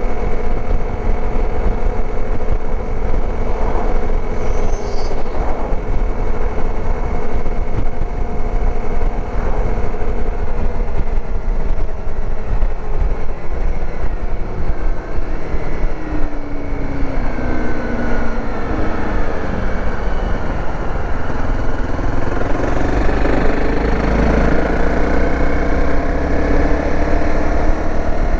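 Dirt bike engine running under way, with heavy wind rush on the microphone. The engine's pitch drops about two-thirds of the way through, then climbs again as the bike speeds back up.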